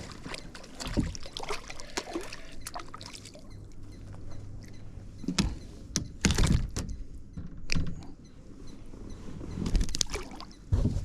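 Water splashing and sloshing with scattered knocks and clicks, the loudest cluster about halfway through, as a hooked largemouth bass is fought and landed.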